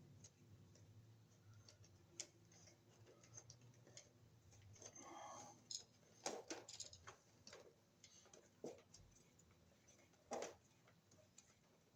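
Faint, scattered small clicks and scrapes of a plastic wire nut being twisted down onto a splice of stranded and solid copper wires.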